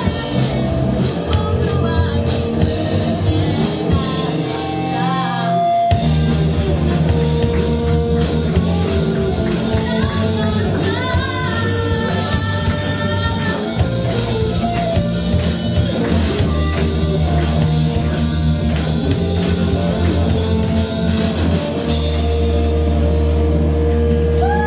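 Live rock band with a singer: drum kit, electric guitar and bass under the vocal line. The bass and drums drop out for a moment about five seconds in, then the band comes back in full, and near the end it holds one steady chord.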